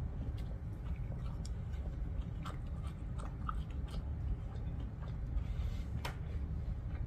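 Close-miked chewing of food, with scattered short wet clicks and ticks from the mouth and utensils, over a steady low hum.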